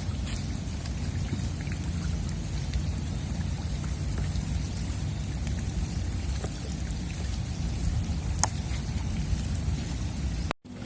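Steady heavy rain falling, an even hiss with a low rumble underneath and scattered drop ticks. The sound cuts out briefly near the end.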